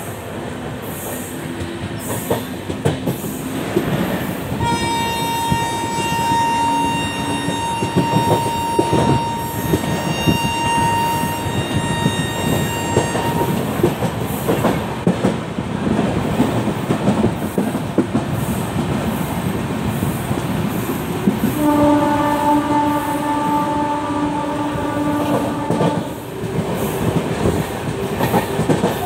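LHB passenger coaches rattling and clattering over the rails at speed behind a WAP 7 electric locomotive. A long, high train horn blast starts about five seconds in and lasts some eight seconds. Later a lower-pitched horn sounds for about four seconds, and again right at the end.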